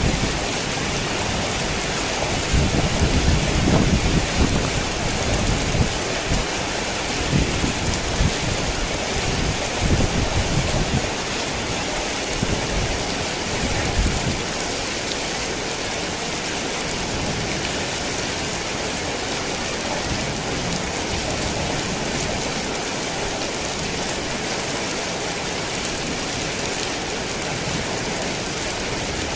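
Heavy rain falling steadily, with low rolls of thunder rumbling through the first half that die away, leaving just the rain.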